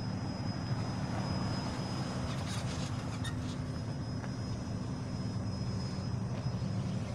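Steady low engine drone of idling vehicles, with a few faint ticks about halfway through.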